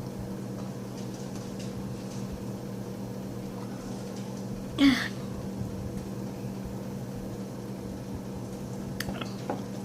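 Steady low electrical hum of room tone. One brief, louder sound comes about halfway through, and a short click comes near the end.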